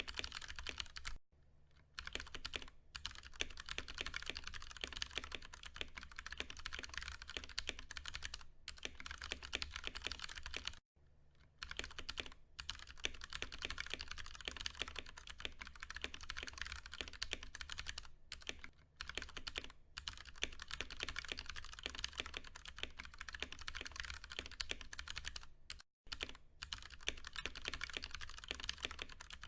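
Fast continuous typing on a Ducky One 2 Mini mechanical keyboard with Cherry MX Brown switches, the tactile, non-clicky keys clacking in quick streams with brief pauses about a second in, around eleven seconds in and near the end.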